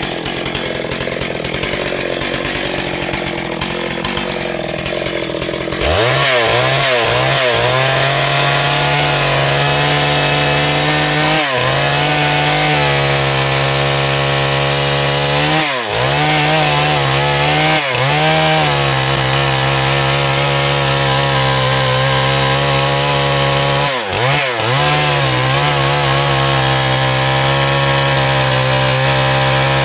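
Chainsaw running at high revs while cutting wood. The first several seconds are a harsher, noisier sound; from about six seconds in there is a steady engine note that dips briefly in pitch several times as the chain loads up in the cut.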